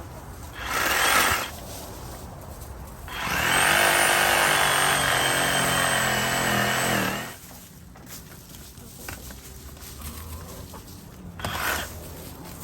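A power tool runs steadily for about four seconds with a high whine. Short scraping or crunching bursts come about a second in and near the end.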